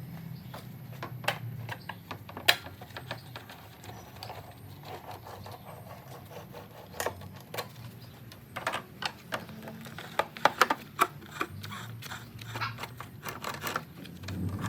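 Irregular light clicks, taps and clinks of metal tools and parts being handled, coming more thickly in the second half, over a low steady hum.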